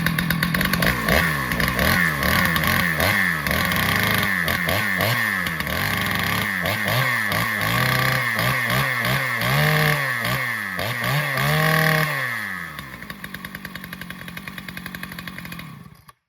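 Husqvarna 2100-series two-stroke chainsaw running, its throttle blipped over and over so the engine revs up and falls back, then settling to an idle with a steady pulse for a few seconds before it is shut off near the end. The crisp revving shows the low-speed jet still in good tune; the idle runs a little high.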